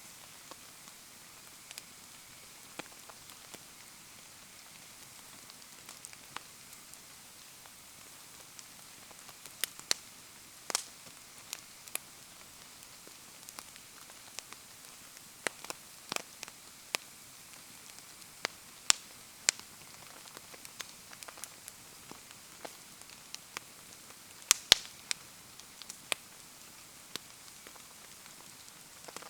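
Bonfire crackling in the rain: scattered, irregular sharp pops over a steady hiss of rainfall, with the loudest pops near the end.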